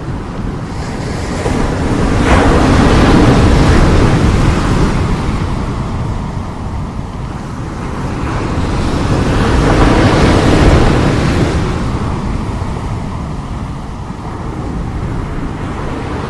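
Strong sea waves breaking and washing in, two big surges about seven seconds apart, the first opening with a sharp crash, over a constant low rumble.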